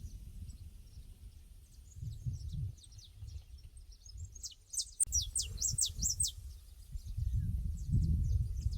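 Pasture ambience: small birds chirping throughout, with a louder run of quick, falling chirps about halfway through, over uneven low rumbling gusts.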